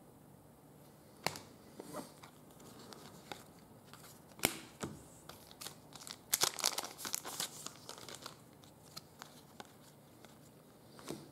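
Soccer trading cards and their packaging being handled: faint paper-and-plastic rustling and crinkling with a few sharp clicks, busiest a little past the middle.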